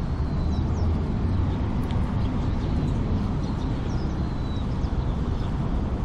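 Steady low rumble of distant city traffic, with a few short, high, thin bird calls and whistles over it.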